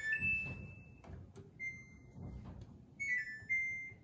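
Samsung washing machine's control panel beeping as a wash program is being selected: a held beep at the start, another about a second and a half in, then a quick run of short beeps at stepped pitches near the end.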